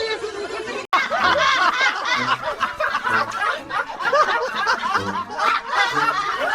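People laughing, snickering and chuckling, breaking off for an instant about a second in.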